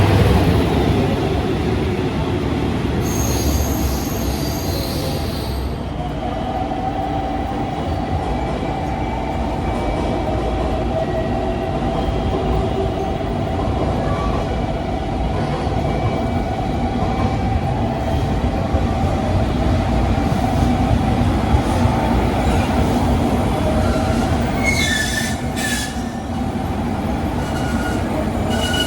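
Electric train running on rails with a steady rumble and a held whine, with high-pitched wheel squeal about three seconds in and again near the end.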